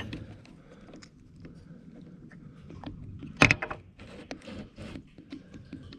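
Hydraulic fluid being poured from a container into the excavator's reservoir without a funnel, a faint trickle under light clinks and rattles of the container, with one sharp knock about three and a half seconds in.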